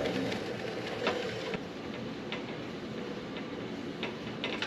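Microfilm reader winding a reel of film, a steady mechanical whir with light ticks about once a second.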